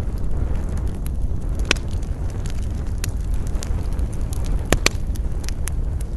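Campfire crackling, with scattered sharp pops, the loudest about two seconds in and a pair near five seconds, over a steady low rumble of wind.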